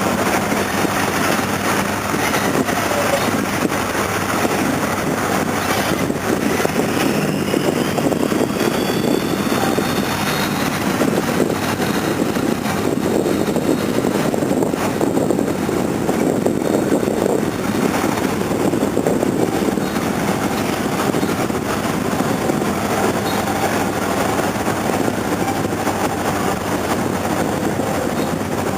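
Steady running noise of a river cruise boat under way: an even, unbroken engine and water rush.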